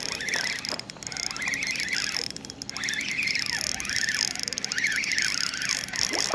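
Spinning fishing reel being cranked to bring in a hooked fish, with high squeaky chirps that rise and fall several times.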